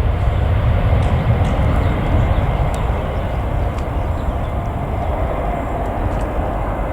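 Jet airliner engines rumbling steadily, slowly fading as the aircraft draws away.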